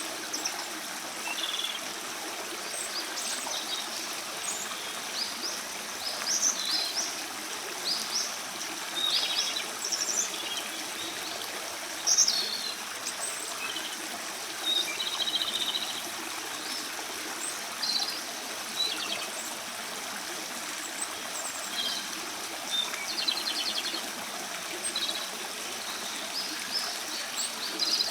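Japanese robin singing, with short high phrases repeated every second or two, many ending in a rapid rattling trill, over the steady rush of running water.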